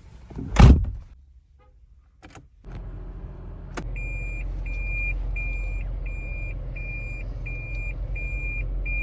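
A car door shuts with a thump, then the low steady hum of a Toyota Prius running comes up. From about four seconds in, a high beep repeats about twice a second inside the cabin, the Prius's reverse warning as it is shifted into reverse.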